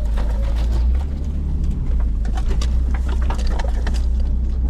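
Nissan Pathfinder driving on a forest dirt road, heard from inside the cabin: a steady low road and engine rumble with scattered rattles and clicks.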